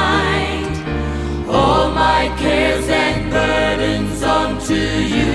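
Gospel worship song: voices singing over sustained bass and keyboard chords with a steady beat, a new sung phrase beginning about a second and a half in.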